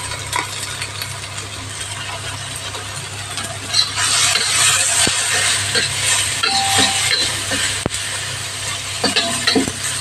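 Chopped onions and garlic sizzling in oil in a stainless steel wok while a metal slotted spatula stirs them, with occasional scraping clicks against the pan. The sizzle gets louder about four seconds in as the chili powder is stirred through.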